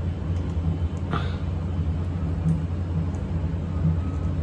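Steady low electrical or mechanical hum, with a brief faint scrape about a second in.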